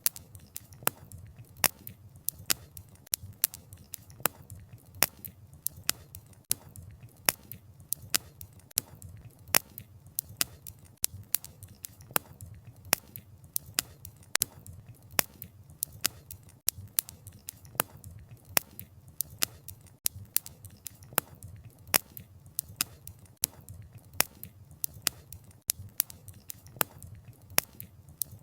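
Wood campfire crackling: sharp pops and snaps of burning wood, two or three a second at uneven spacing, over a low steady rumble of the flames.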